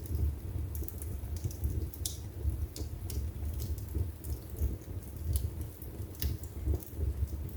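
Wood fire burning in a fireplace: a low rumble of the flames with irregular sharp crackles and pops from the burning logs.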